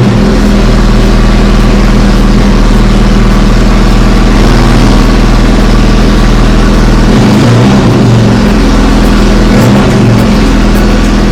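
1310 cc BMC A-Series four-cylinder race engine running loud and steady on an engine dyno stand, its pitch shifting a little about seven and ten seconds in.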